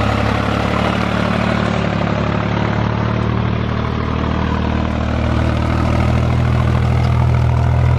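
Tractor diesel engine running steadily, a little louder in the second half.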